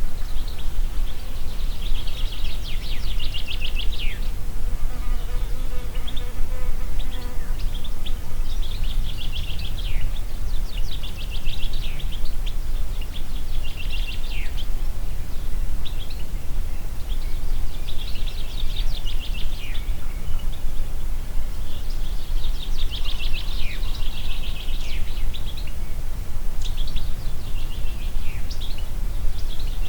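Songbird singing: repeated high, rapid trilled phrases, each ending in a quick falling slur, coming every few seconds over a steady low wind noise.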